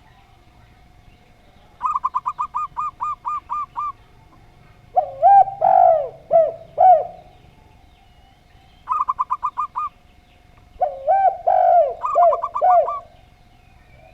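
Zebra dove and spotted dove cooing in turn. Twice, a quick run of about eight short, higher coos is answered by a louder series of lower coos that bend down in pitch. A faint steady hum runs underneath.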